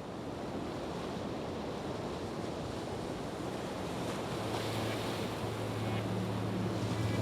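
Ocean waves and surf, a steady rushing wash. A low steady hum comes in about four and a half seconds in and grows louder toward the end.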